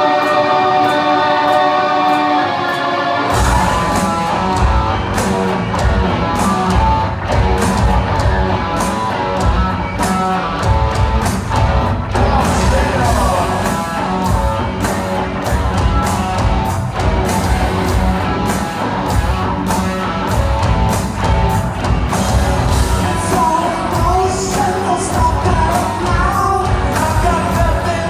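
Live rock band opening a song. A guitar riff plays alone for about three seconds, then drums and bass kick in and the full band plays with a voice singing.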